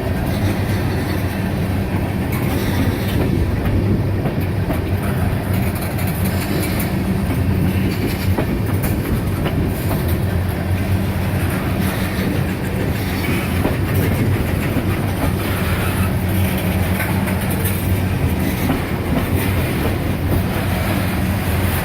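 Freight cars of a slow CSX manifest train rolling past, their wheels clicking over rail joints, with a steady low hum underneath.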